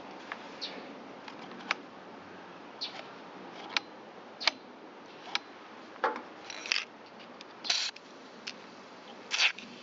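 Parts and tools being handled while reassembling a small two-stroke string trimmer engine: irregular sharp clicks and taps with a few short scrapes.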